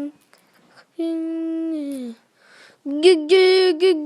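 A high voice singing wordless notes: one held note about a second in that slides down at its end, then a quick run of short, bright notes near the end.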